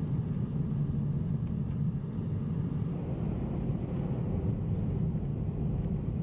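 Car driving along a road: a steady low rumble from the moving car.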